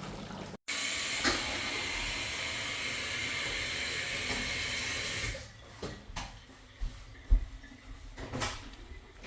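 A steady hiss that stops suddenly after about four and a half seconds, followed by a few light knocks.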